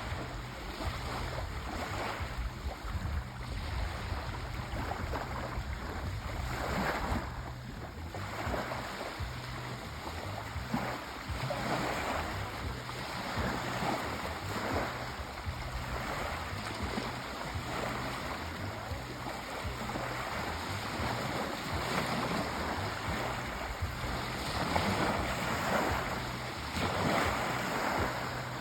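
Sea waves washing on a shore: continuous surf that swells and eases every few seconds.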